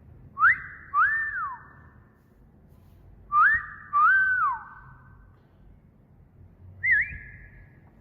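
Wolf whistle given twice, each a quick rising note followed by a rising-then-falling note, with a short wavering whistle near the end.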